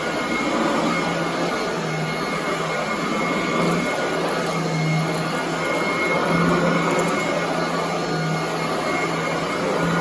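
Commercial upright vacuum cleaner running on carpet: a steady roar with a low motor hum that swells and eases roughly every second, and a thin steady whine above it.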